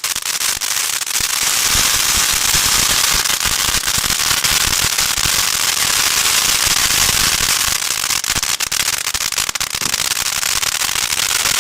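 Fireworks going off nonstop: a dense, rapid crackle of many small pops with no break.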